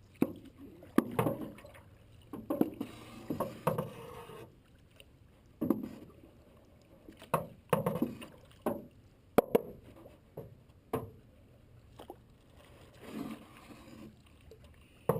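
Paddles stroking and splashing through creek water alongside a small paddled boat, every second or two at an uneven pace, with a few sharp knocks mixed in.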